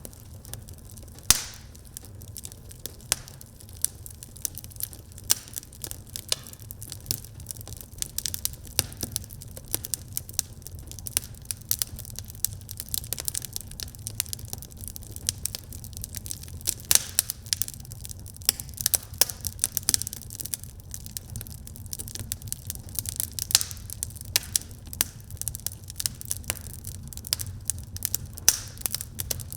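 Wood fire burning in a fireplace: dense, irregular crackles and pops over a steady low rumble, with a sharp pop about a second in.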